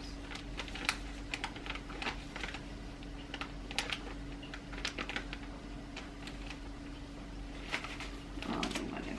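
Spoon clicking and scraping against a bowl and bag while brown sugar is spooned out for weighing, in light irregular ticks, with a steady low hum underneath.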